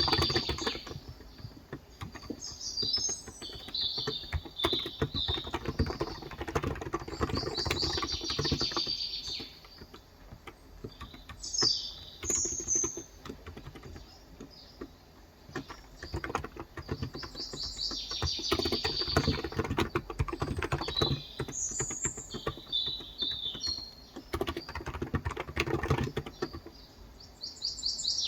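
Typing on a Cox Endeavor electrostatic-capacitive (contactless) tenkeyless keyboard with light 35 g keys: runs of rapid keystrokes with a pause of a few seconds in the middle. Small birds chirp and trill throughout.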